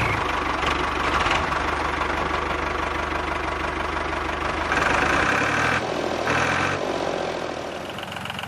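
A small engine running steadily with a fast, even knocking beat. About five seconds in the low rumble drops away, and two short, brighter spells of running follow.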